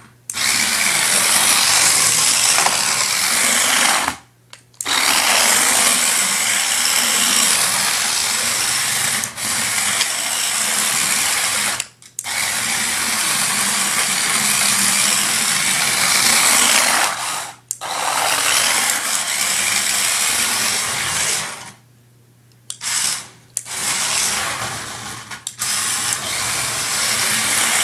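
Small electric motor and gears of an all-wheel-drive toy RC drift car running flat out in runs of several seconds, cutting out briefly several times as the throttle is let off between drifts.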